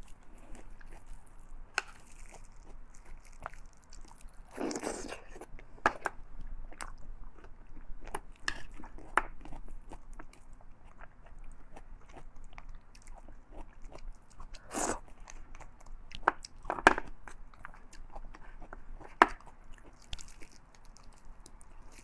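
A person eating close to the microphone: chewing and biting, with irregular short mouth clicks and smacks. A few louder ones come about five seconds in and again around fifteen and seventeen seconds.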